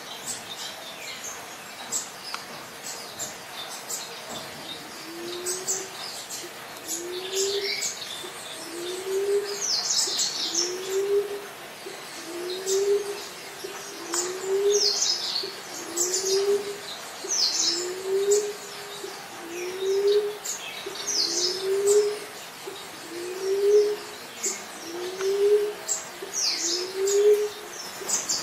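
Emerald dove cooing: a steady series of low, slightly rising coos, starting about five seconds in and repeating about every second and a half. Higher chirps from other small birds carry on throughout.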